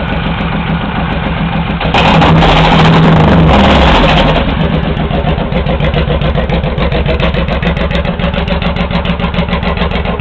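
Honda VTX1800 V-twin idling through 3-inch Hard Krome straight pipes with its pair valve blocked off, giving a loping idle. About two seconds in it swells louder for about two seconds, like a brief throttle blip, then settles back to the even idle.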